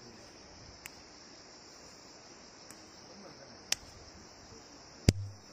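A few sharp pops from popping flowers, the loudest about five seconds in with a short low thud after it, over a steady high chirring of crickets.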